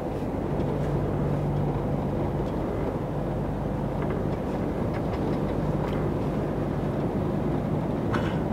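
Lorry's diesel engine and road noise heard from inside the cab while driving: a steady, even low drone with a constant hum. A faint short click sounds near the end.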